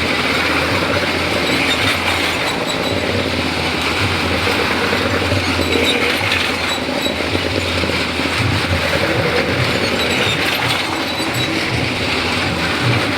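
Motorcycle engines running continuously as riders circle the vertical wooden wall of a well-of-death drum, with a steady rumble from the tyres on the wooden boards.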